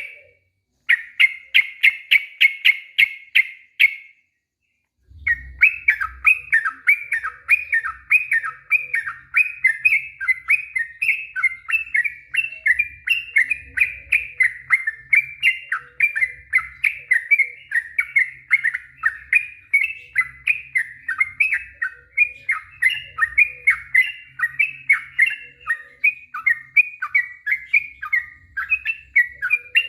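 Yellow-vented bulbul (trucuk) singing its long run of quick repeated notes, the 'ropel panjang' song. A short burst of fast notes comes first, then a pause of about a second, then an unbroken chattering series of several notes a second.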